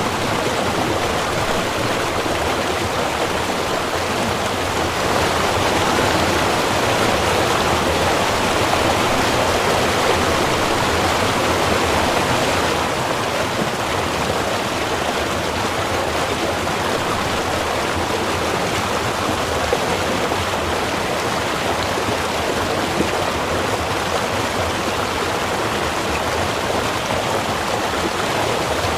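Small river running over rocks, a steady rushing babble that swells slightly a few seconds in and eases back before the middle.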